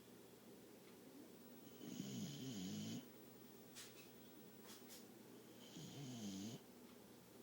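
Dog snoring in its sleep: two snores, each about a second long with a wavering pitch, a few seconds apart.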